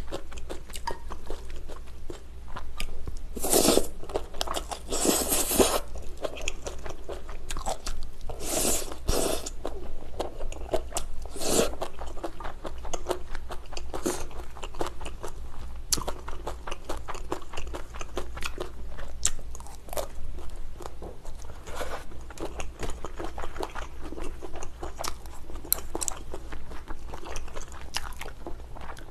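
Close-miked chewing of stir-fried rice noodles (pad thai), with wet mouth clicks and several louder crunches in the first twelve seconds or so.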